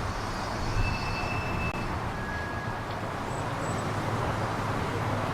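Steam-hauled train running by: a steady rumble with two short, thin, high squeals, the first about a second in and the second a second later.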